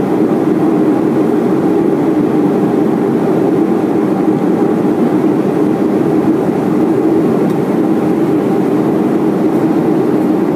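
Steady cabin noise of a Boeing 737-400 in flight on descent: an even, low rush of airflow and the drone of its CFM56-3 engines.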